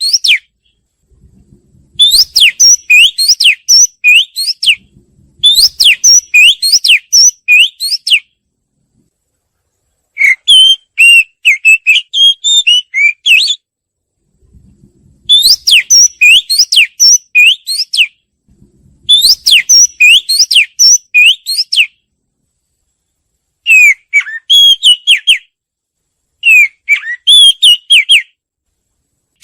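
Oriental magpie-robin singing: loud phrases of varied clear whistled notes, each lasting a few seconds, about eight of them with short pauses between.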